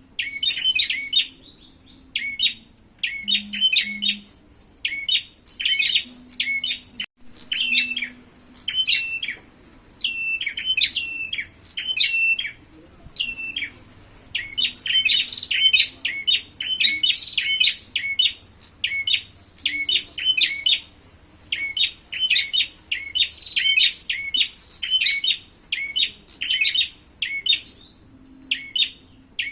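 Prenjak birds (prinias) chirping in rapid, sharp repeated phrases, calls piled close together with short breaks, the agitated calling of prenjak fighting.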